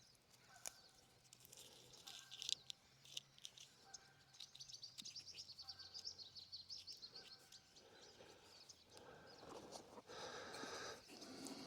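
Quiet woodland ambience with a bird's rapid high chattering trill lasting about three seconds in the middle, a few small clicks before it, and soft rustling near the end.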